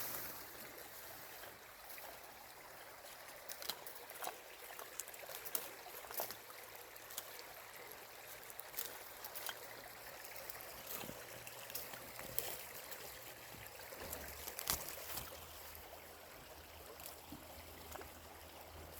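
Steady rush of a flowing river, with scattered light clicks and ticks throughout.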